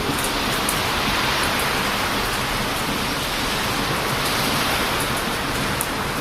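Heavy surf washing onto a beach, a steady rushing hiss that swells and then eases, with small crackles from a wood campfire scattered through it.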